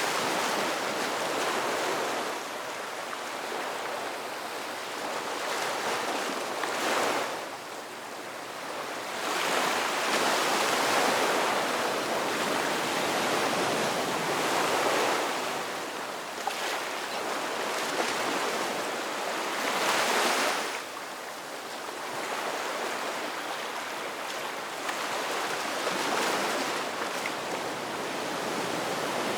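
Ocean waves breaking and washing ashore in a continuous surf wash that swells and eases, with stronger surges every few seconds.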